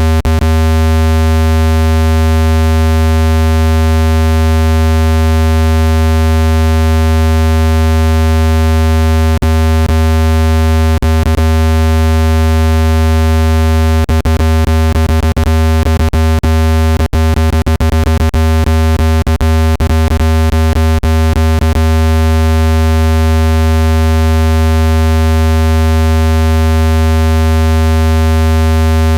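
Speaker dust-cleaning tone: a loud, steady, deep synthesized hum with a ladder of overtones, meant to vibrate dust out of a phone speaker. Runs of sharp clicks break in over the middle stretch.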